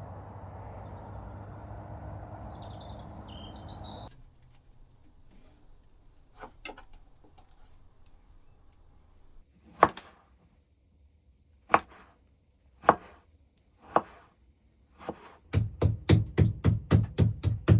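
Steady outdoor background noise with a brief bird chirp, then an abrupt change to a quiet background and a knife chopping food on a cutting board. The chopping begins as single chops a second or so apart, then becomes a fast run of about four chops a second near the end.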